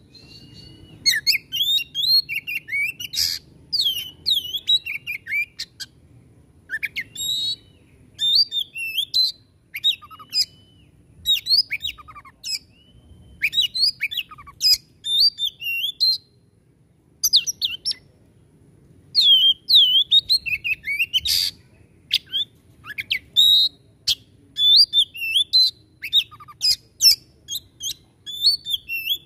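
Oriental magpie-robin (kacer) singing in rapid phrases of varied whistles, chirps and harsh notes, broken by short pauses: the fast, harsh "tembakan" song that kacer keepers prize.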